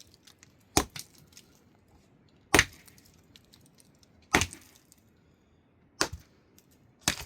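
Heavy blows of a hand tool striking a hard material, five strikes about every one and a half seconds.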